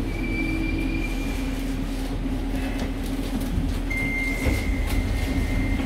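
Docklands Light Railway train standing at a station with its doors open: a steady low hum from the train. A thin high steady tone sounds in the first couple of seconds and again from about two-thirds of the way in.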